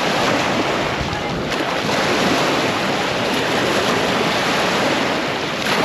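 Steady wind buffeting the microphone, mixed with the wash of small waves on the beach.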